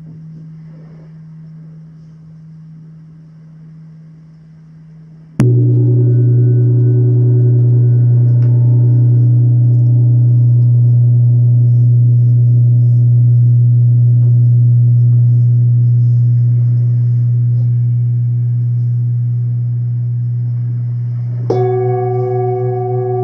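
Deep-toned struck metal instrument of a sound bath: a low tone fading at first, then a fresh strike about five seconds in that rings on long and loud with a slow wavering pulse. Near the end a second, higher-pitched bowl-like instrument is struck and rings over it.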